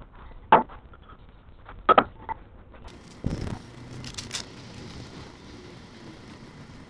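A few sharp knocks and clicks, a duller thump about three seconds in, then a couple of lighter high clicks over faint steady background noise.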